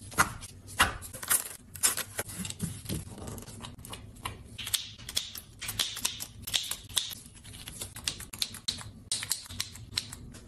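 Irregular run of light, sharp clicks and taps, several a second, from kitchen items being handled.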